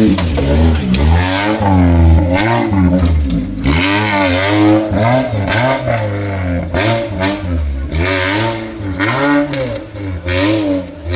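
Off-road vehicle engine revving hard again and again, its pitch rising and falling every half second or so, with a few sharp clatters in the second half.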